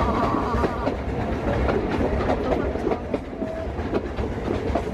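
Narrow-gauge passenger train running along the track, heard from on board: a steady rumble with irregular clicks and rattles from the carriage and wheels.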